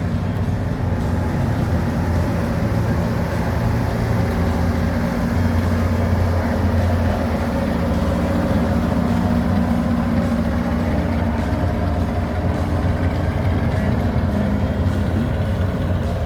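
A car engine running steadily and loudly, holding an even low pitch with little change.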